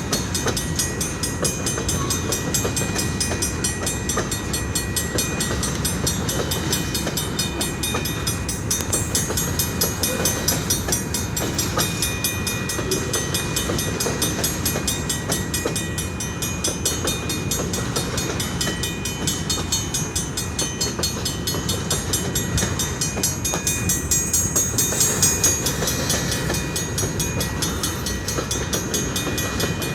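Train cars rolling past on the rails: a steady rumble with thin, high, steady tones ringing above it.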